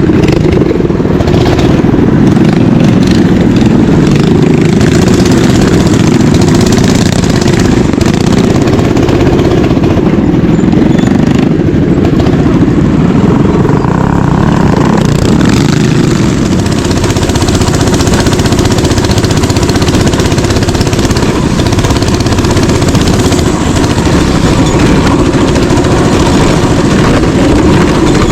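Small mini bike engine running steadily and loud, close to the microphone, holding an even pace for the whole stretch with no clear revs or stops.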